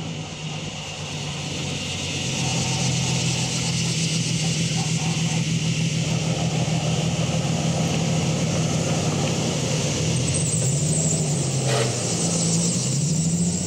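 Nissan 300ZX's V6 engine running while the car drives, over steady road and tyre noise. About ten seconds in the engine note drops and then climbs again, and a single short knock comes near the end.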